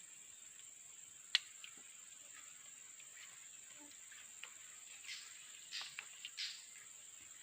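Steady high-pitched insect drone, with a sharp click a little over a second in and a quick run of rustling snaps near the end.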